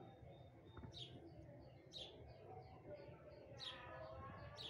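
Faint birdsong: a bird repeating a short, high, falling chirp about once a second, with a quick run of short notes in between, over a low steady outdoor rumble.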